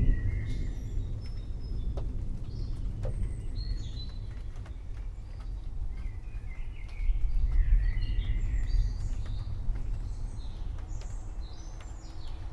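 Low rolling thunder, loudest at the start and again about seven seconds in, with many small birds chirping over it.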